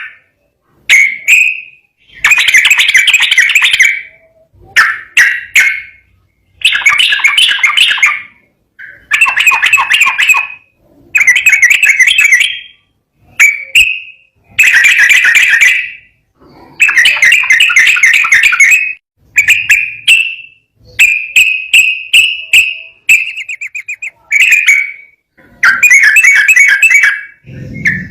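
A yellow-vented bulbul singing in a rapid run of bubbly phrases, each a second or two long, with short pauses between, about a dozen in a row. Near the end it gives a brief fast ticking trill.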